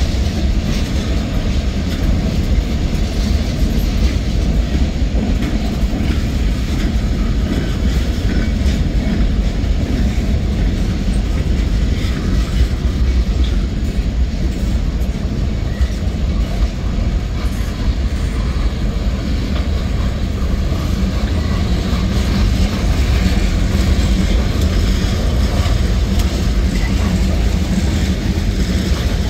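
Cars of a mixed freight train, boxcars and then tank cars, rolling past close by: the steady noise of steel wheels on the rails, with faint repeated clicks from the wheels.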